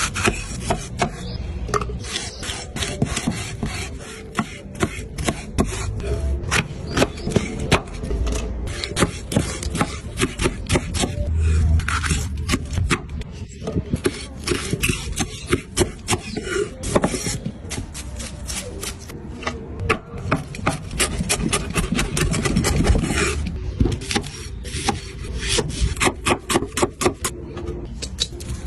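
Rapid, irregular scraping and rubbing against wood, with many short taps, as food is worked by hand at a wooden surface.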